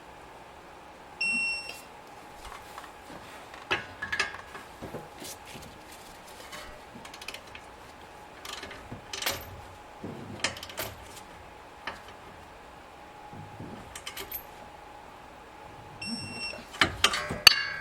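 Two beeps about 15 seconds apart, each under a second long: a digital torque wrench signalling that each caliper anchor bolt has reached its 85 ft-lb setting. Light tool clicks and clanks fall between them, and a quick run of louder metal clanks comes near the end.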